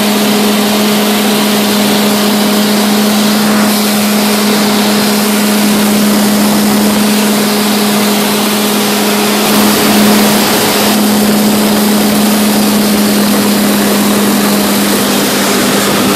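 Cockpit noise of a Snowbirds CT-114 Tutor jet in flight: a steady rush of the single J85 turbojet and airflow with a constant low hum, the low end swelling slightly about halfway through as the jet manoeuvres.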